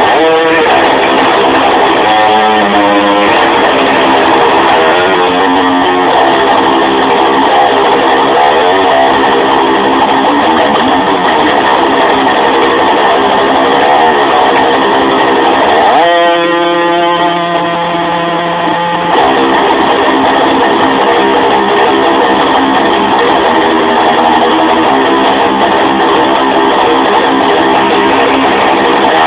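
Electric guitar music, loud and steady, with strummed chords over bass. About sixteen seconds in, it settles for around three seconds onto a few held notes, then the full playing returns.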